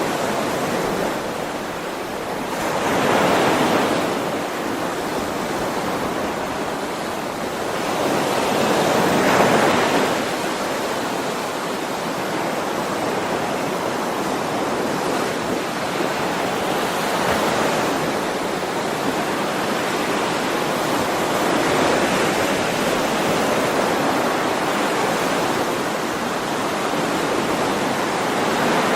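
Ocean waves washing onto a shore: a steady rush of surf, with two stronger swells breaking near the start and about a third of the way in, then gentler ones.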